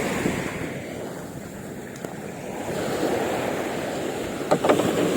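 Sea waves washing and surging in slow swells, with wind buffeting the microphone.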